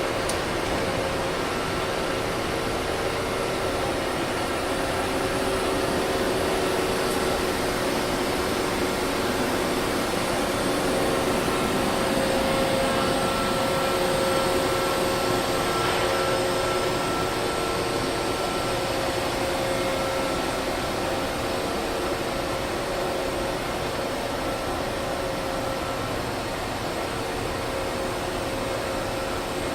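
Niigata HN80C horizontal machining center running under power: a steady mechanical whir with several held humming tones and no distinct clunks.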